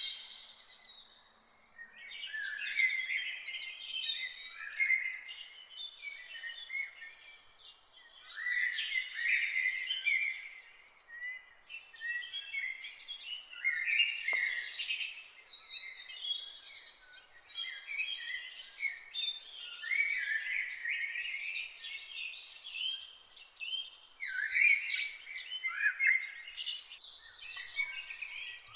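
Several birds singing and chirping over one another in a busy morning chorus, with short warbled phrases coming in overlapping waves. A thin steady high tone runs underneath, and there is one faint click about halfway through.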